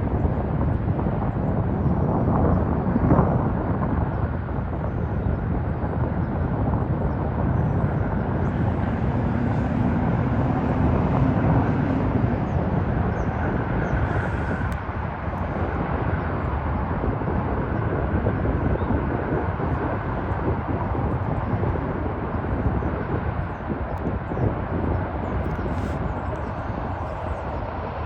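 Distant, steady rumble of a General Electric P32AC-DM dual-mode diesel locomotive heard from far above, mixed with outdoor noise that is heaviest in the low end.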